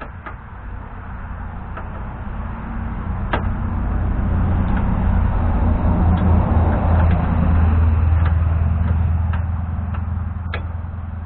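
A motor vehicle driving past, its low engine rumble swelling to a peak about seven seconds in and then fading, with a few light clicks over it.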